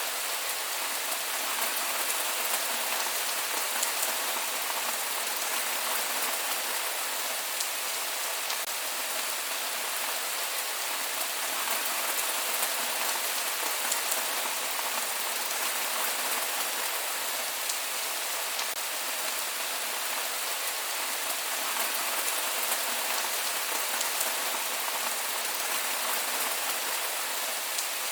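Steady rain falling on a surface, with no thunder: an even hiss of drops with faint scattered ticks.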